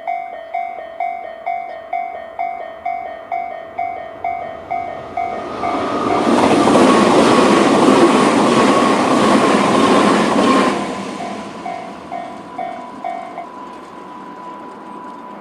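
Japanese level-crossing alarms chiming steadily, about two strikes a second, as a Tobu 100 series 'Spacia' limited-express train passes for about five seconds with a loud rush of wheel and body noise and a slowly falling whine. The chiming goes on briefly after the train is gone, then stops.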